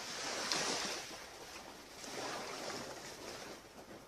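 Sea waves washing onto a beach, swelling about half a second in and again around two seconds, then fading away near the end.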